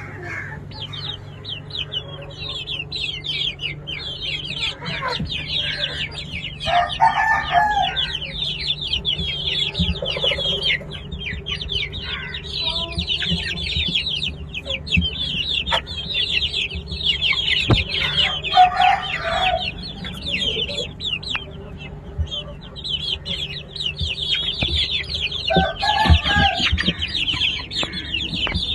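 Many birds chirping together in a dense, continuous chatter of short high notes. Three louder, lower calls, each about a second long, rise above it about a quarter of the way in, past the middle, and near the end. A steady low hum runs underneath.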